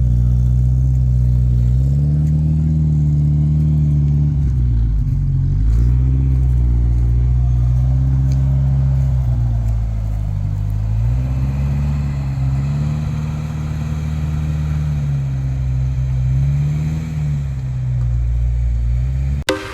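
Ford Escort Mk1 engine idling and being revved lightly a few times, its pitch rising and settling back. The sound cuts off abruptly near the end.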